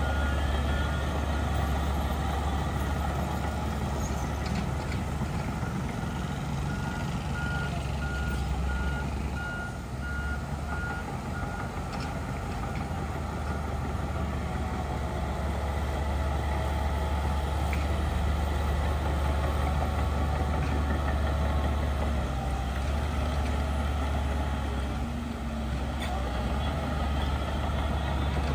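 Heavy diesel earthmoving machinery running steadily with a deep drone. A reversing alarm beeps at an even pace through the first twelve seconds or so, then stops.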